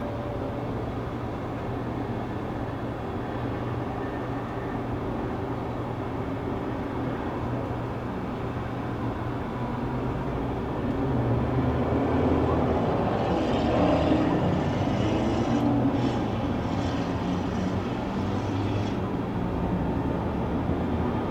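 Distant jet airliner engine noise over a steady low city hum, swelling for several seconds about halfway through and then easing back.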